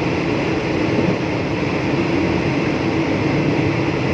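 Steady running noise of a moving passenger train, heard from inside the carriage, with the energy mostly in a low rumble.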